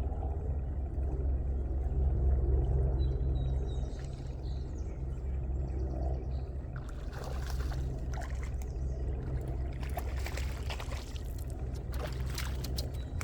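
Water splashing and sloshing around an inflatable boat from about seven seconds in, over a steady low rumble.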